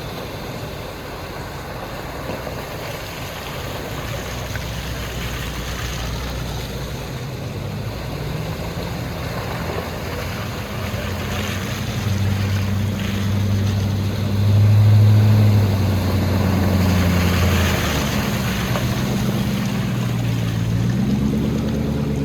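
A 4x4 off-road vehicle's engine driving through a creek crossing, revving up in steps from about a third of the way in and loudest around the middle, with water rushing and splashing around the vehicle.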